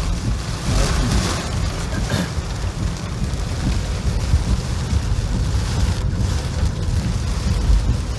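Heavy typhoon rain and wind, a steady rushing hiss over a constant low rumble, with a louder gust of rain about a second in.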